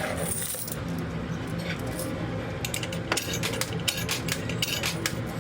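Quarters dropping into a coin pusher and clinking onto the coins on the playfield, as scattered sharp clicks over the machine's steady low hum.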